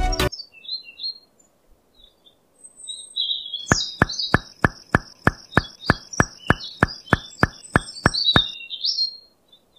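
Bird chirps with a steady run of short ticks, about three a second, from about four seconds in until shortly before the end. Background music cuts off just as it begins.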